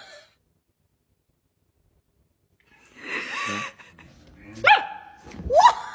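Silence for the first half, then a dog barking: a short sound about three seconds in and two sharp barks near the end.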